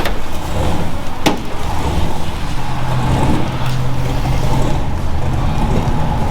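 Vehicle engine running with a steady low drone, and a single sharp click about a second in.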